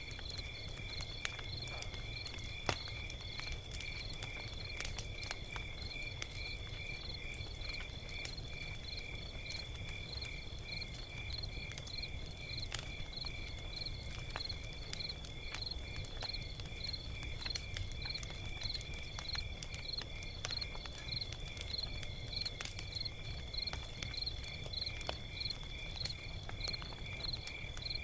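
Log fire crackling, with scattered sharp pops over a low rumble. Behind it runs a constant high-pitched chirping in an even rhythm of about two chirps a second.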